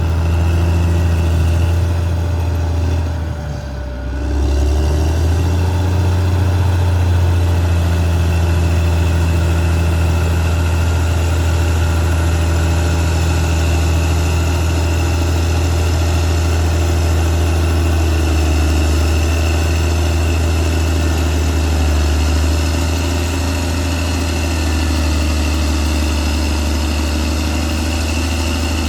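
Caterpillar D6R XL bulldozer's diesel engine running steadily under work, with a deep low hum. The engine note dips briefly about three to four seconds in, then picks back up.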